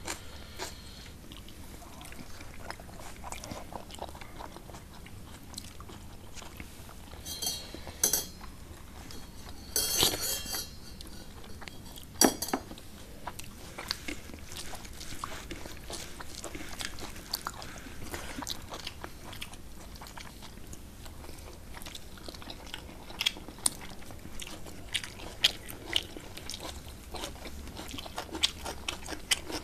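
Close-up eating sounds of two people eating rice and curry by hand: steady chewing and lip smacks, with a few louder crunchy bursts about 7, 8 and 10 seconds in and a sharp click about 12 seconds in.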